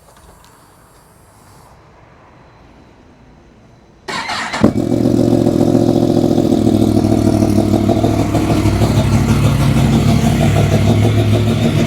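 Yamaha MT-10 SP's crossplane inline-four cold-started: after a few quiet seconds the starter turns it over briefly, the engine catches about four and a half seconds in and settles into a steady cold idle. It runs through a decat system with the standard Yamaha end can.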